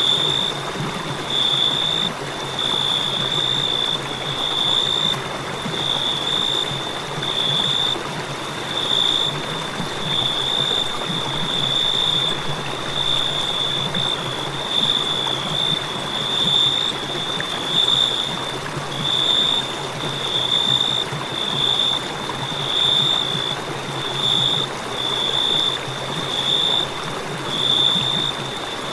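Crickets chirping continuously, a high steady trill that swells and fades about once a second, over a constant rushing hiss.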